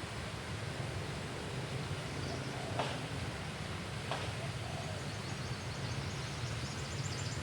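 Outdoor riverside ambience: a steady low rumble, two sharp clicks a little over a second apart near the middle, and faint high chirping and ticking toward the end.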